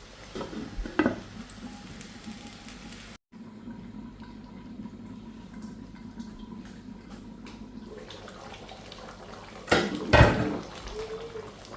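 Kitchen cooking sounds: a steady low watery hiss, with a few light knocks of pot or utensils near the start and a louder clatter of pots and utensils about ten seconds in.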